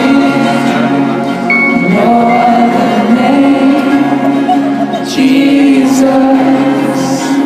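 Live Christian rock band playing with singing, holding long sustained chords.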